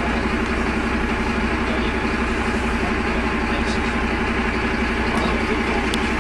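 Optare Tempo single-deck bus's diesel engine running steadily, heard from inside the passenger saloon.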